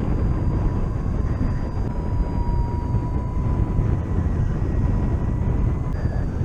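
Wind rushing over the microphone during a paraglider flight: a loud, steady low rumble of airflow. A faint steady high tone sits underneath and stops near the end.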